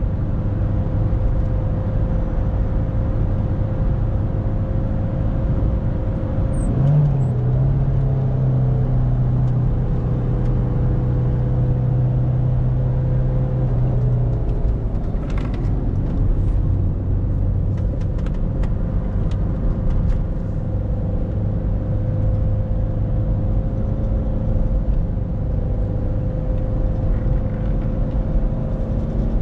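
2001 Citroën Berlingo 1.9D's four-cylinder diesel engine running steadily while driving, over tyre and road noise. The engine pitch rises briefly about seven seconds in, and a few sharp ticks come through in the middle.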